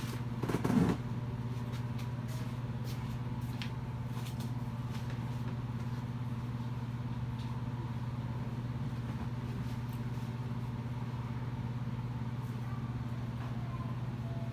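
Steady low hum of an idling car engine, heard from inside the cabin, with a brief louder sound about half a second in and a few faint clicks.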